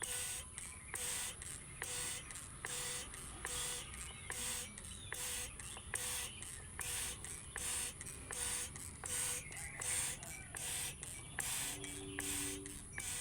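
Water spraying in short, evenly spaced spurts, about three every two seconds, over a bathing sooty-headed bulbul, with a brief low tone after each spurt.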